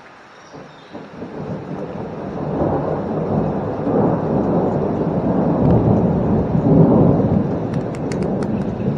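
A low rumble that builds up over the first few seconds, then keeps swelling and easing. A few short, sharp clicks come near the end.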